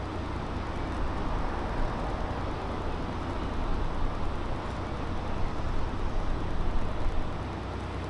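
Street traffic ambience: a vehicle passing on the road, its sound swelling from about a second in and fading near the end, over a steady low rumble.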